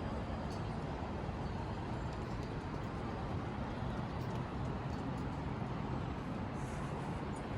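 Steady rushing noise with a heavy low rumble, the sound of riding a bicycle along city streets with the microphone exposed to moving air and traffic.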